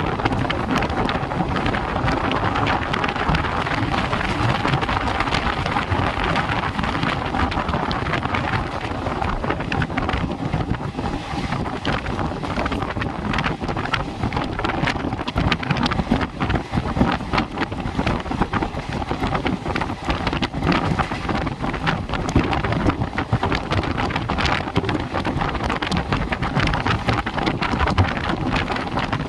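Steady rushing noise of a moving train, with wind buffeting the microphone.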